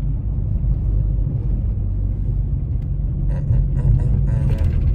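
Steady low road rumble inside a moving car's cabin, with a few faint clicks near the end.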